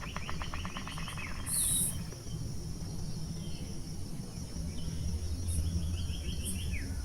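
A bird calling in quick runs of rapidly repeated notes, with short downward-sliding notes between them. Brief high insect chirps sound a few times over a low background hum.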